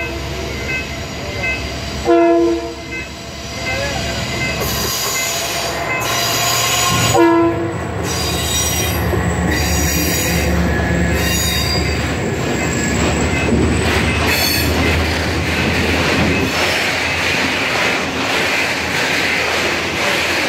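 TCDD freight train hauled by DE33000 and DE24000 diesel-electric locomotives: the horn sounds two short blasts, about two and seven seconds in, over the locomotives' running. The long train of wagons then keeps rolling past with steady wheel and rail noise.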